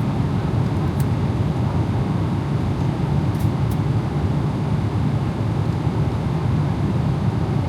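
Steady cabin noise inside a Boeing 777-300ER airliner in flight: an even, low rumble of engines and airflow, with a few faint clicks about a second in and again near the middle.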